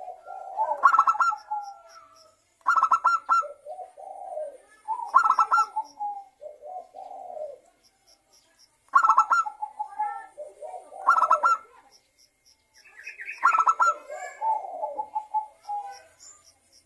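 Zebra dove (perkutut) cooing, about six rhythmic phrases roughly two seconds apart. Each phrase is a quick stuttering run of notes followed by lower, softer coos.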